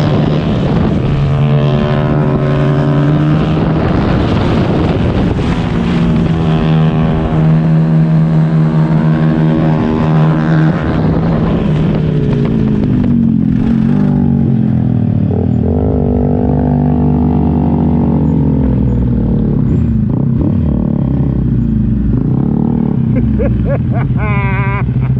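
Kawasaki Ninja 1000's inline-four engine heard on board under way: a steady engine note for the first half, then the revs falling in several steps as the bike rolls off and slows.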